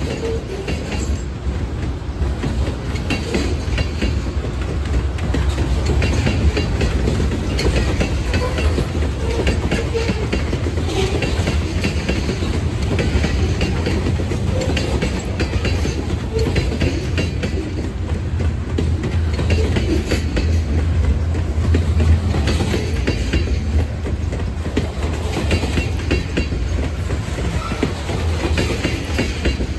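Freight cars of a passing train rolling by: covered hoppers and centerbeam flatcars make a steady low rumble with the repeated clickety-clack of their wheels on the track.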